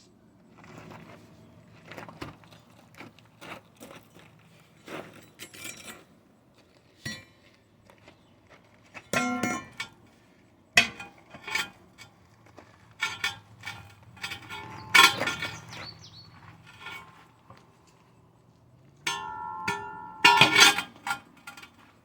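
Metal tools clanking, knocking and scraping against aluminum truck wheels as a tire bead is pried off by hand. The strikes are irregular, and a few of the sharper hits ring briefly.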